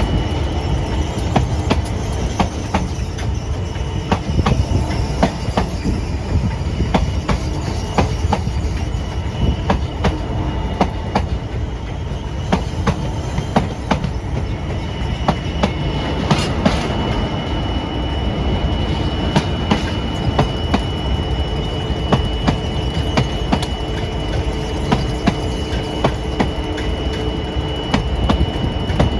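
Freight train's wagons rolling slowly past, wheels clicking over rail joints again and again. A steady high wheel squeal sets in about halfway through.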